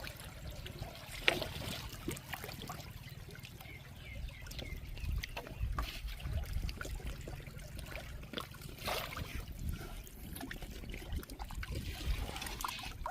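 Water trickling and splashing around a bamboo raft drifting down a shallow river, with scattered small splashes and a steady low rumble underneath. A single sharp knock sounds about a second in.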